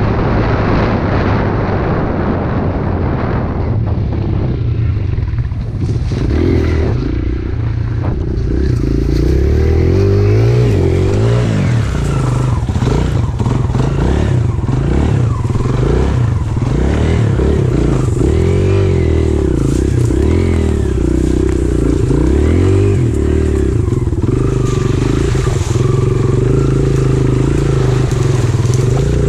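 Pit bike engine running while being ridden, its pitch rising and falling again and again as the throttle is opened and closed.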